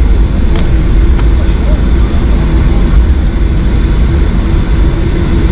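Boeing 737-800 cabin noise while taxiing: the jet engines and airframe make a loud, steady low rumble with an even hum over it.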